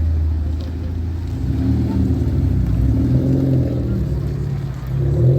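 Car engine running at low revs, its pitch rising as it is revved up near the end.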